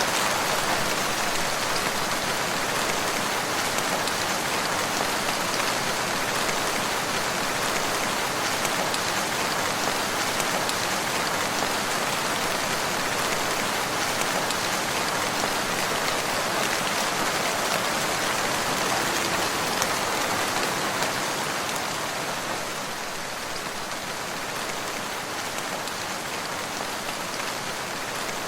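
Steady rain falling, a dense continuous hiss of many drops, easing slightly a little before the end.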